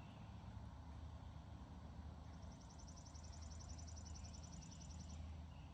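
Faint outdoor ambience with a steady low rumble; about two seconds in, a songbird gives a high, rapid trill of about ten notes a second that lasts about three seconds.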